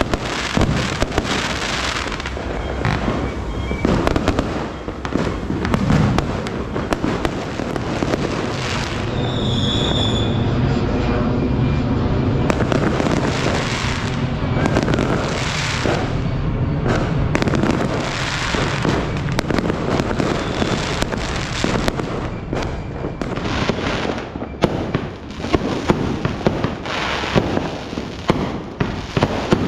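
New Year fireworks going off continuously: a dense run of bangs and crackling, thickest in the middle, with a brief high tone about ten seconds in.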